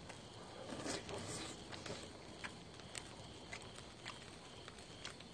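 Faint, irregular crackling of a wood fire under a grill grate: scattered sharp pops and ticks, one or two a second.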